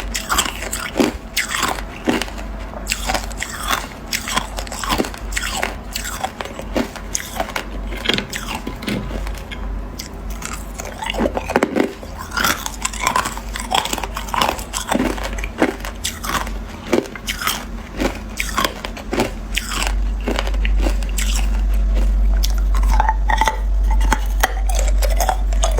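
A person biting and chewing hard ice: a close, irregular run of crisp crunches, some close together, over a low hum that gets louder near the end.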